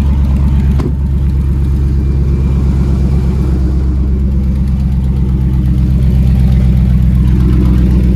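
Dodge Ram 1500's 5.7L Hemi V8 idling steadily on fresh oil just after an oil change, with one short click about a second in.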